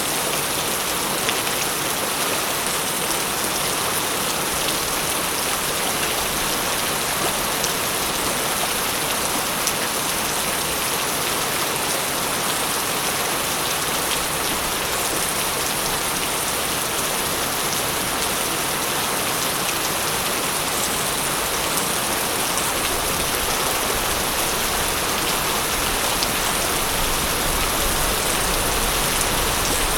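Steady, even rain falling, with scattered drop ticks, and a low rumble starting to build near the end.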